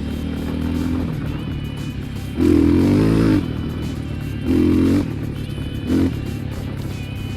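Enduro motorcycle engine revving in three bursts, the longest about two and a half seconds in, then two shorter ones, over background music.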